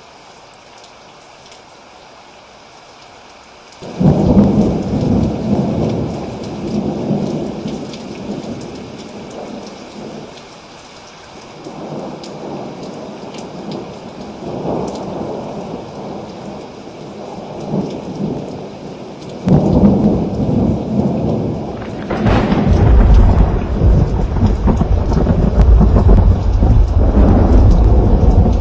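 Thunderstorm: steady rain, then about four seconds in a sudden crack of thunder that rolls and fades, more rolling thunder later, and a deep, heavy rumble that builds and holds near the end.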